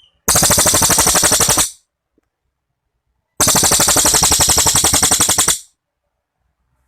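Cililin songbird singing two loud, very rapid rattling trills, its 'tembakan' song. The first lasts about a second and a half and the second, starting about three seconds later, about two seconds.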